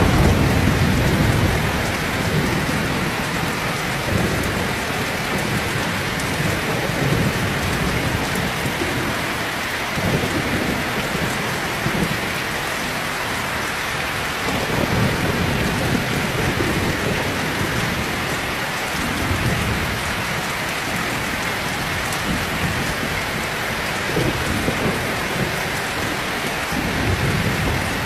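Heavy rain pouring steadily, with low thunder rumbles that swell and fade several times.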